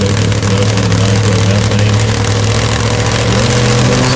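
Supercharged, nitro-burning inline four-cylinder engine of a Top Fuel drag motorcycle running loudly and steadily, its pitch wavering slightly.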